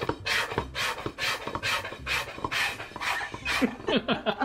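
Dog panting rapidly, about three quick breaths a second.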